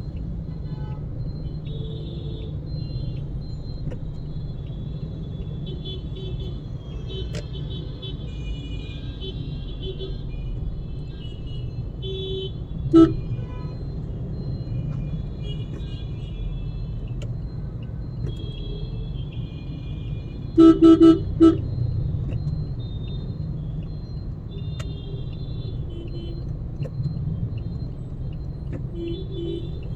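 Car driving with steady low road and engine rumble, and a car horn honking: one short beep about 13 seconds in, and three quick beeps about 21 seconds in.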